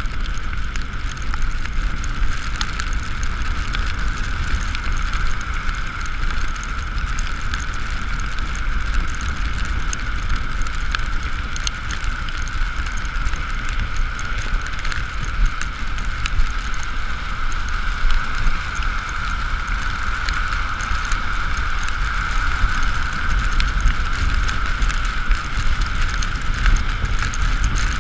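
Ekoway ML5000 electric scooter riding along a wet road: low wind rumble on the camera microphone, tyre and rain hiss, and a steady high whine throughout.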